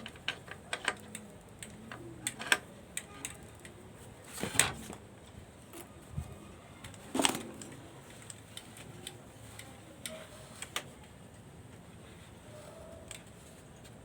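Irregular light clicks and taps from caged birds pecking and moving about, with two louder knocks about four and a half and seven seconds in.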